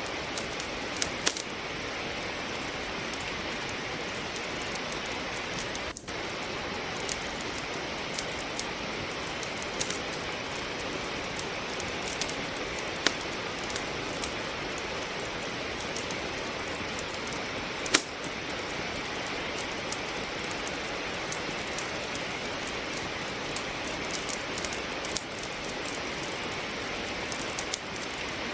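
Steady rain with a wood fire crackling in a fireplace: a constant even hiss of rainfall, with sharp crackles and pops scattered at irregular moments. The loudest pop comes about eighteen seconds in.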